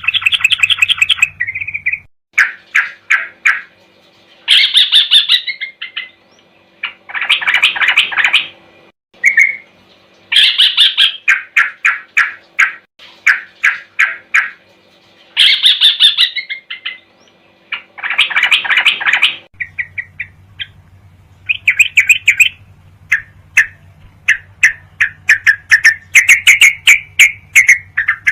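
Yellow-vented bulbul (trucuk) song: bursts of rapid chattering notes, each phrase a second or two long, separated by short pauses. The faint background hum changes about two seconds in and again near twenty seconds, as one recording gives way to another.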